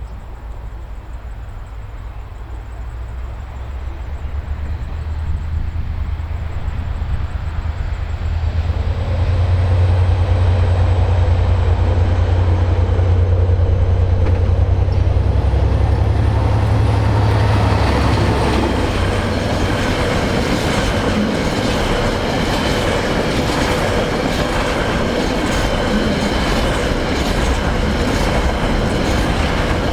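KiwiRail diesel freight train passing close by: the locomotive's low engine rumble builds and is loudest about a third of the way in, then the freight wagons roll past with a steady rhythmic clickety-clack of wheels over the rail joints and some ringing metallic wheel noise.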